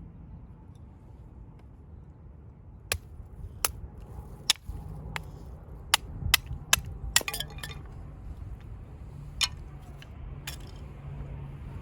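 A string of about a dozen sharp, irregular clicks and snaps, bunched most thickly between about four and eight seconds in, over a low background rumble.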